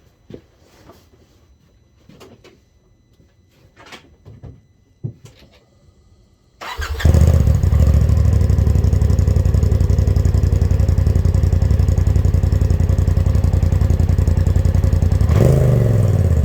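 A few faint clicks, then about six and a half seconds in an engine on its stock exhaust starts and runs loud and steady with a fast, even exhaust pulse. Near the end it is briefly revved up and back down.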